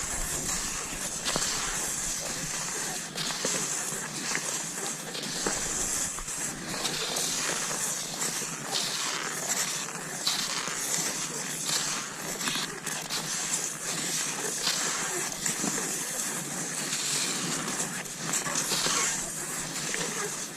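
Cross-country skis gliding over snow: a continuous hissing swish that swells and eases every second or two with each stride, with scattered light clicks.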